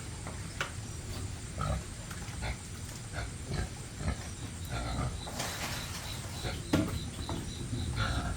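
Pigs grunting, short calls coming irregularly one after another.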